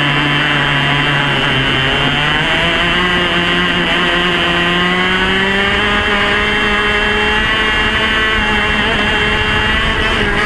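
Yamaha KT100 single-cylinder two-stroke kart engine running hard at high revs. Its pitch sags briefly, then climbs steadily as the kart accelerates and holds high near the end.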